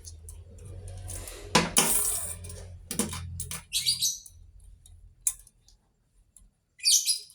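Metal tools and valve parts clinking and knocking as they are handled, with a few sharp taps and a brief high metallic rattle near the end. This is the fitting of valve springs on an Isuzu 6HK1 diesel cylinder head.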